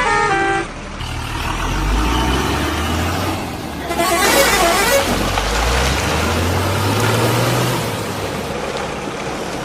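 A short horn toot ends just after the start. Then a heavy vehicle engine runs, its pitch rising and falling as it revs, with a burst of gritty, rattling noise about four seconds in.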